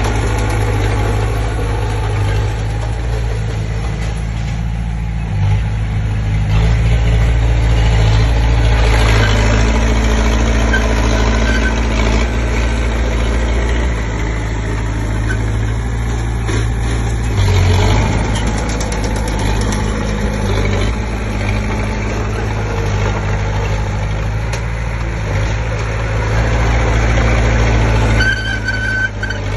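Komatsu D20P bulldozer's diesel engine running under changing load, its note shifting up and down several times, with a few metallic clanks.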